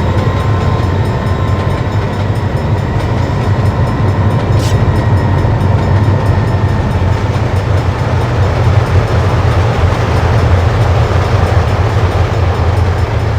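A long string of BNSF diesel locomotives, GP38s and C44-9Ws, rolling past with a loud, steady low engine rumble.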